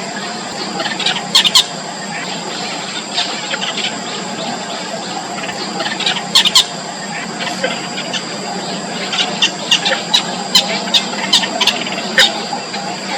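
Yellow bittern chicks in the nest giving short, sharp squeaky calls in bursts: a pair about a second and a half in, another pair around six and a half seconds, then a quicker run near the end.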